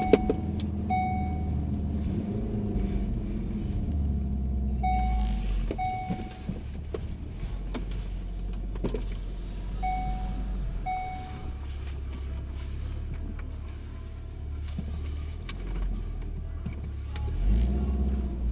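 Car running on the road, heard from inside the cabin as a steady low engine and road rumble, with pairs of short electronic beeps every few seconds.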